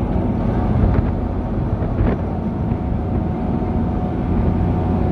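Steady low rumble of a car ferry's engines under way, with a faint steady whine and a couple of light knocks about one and two seconds in.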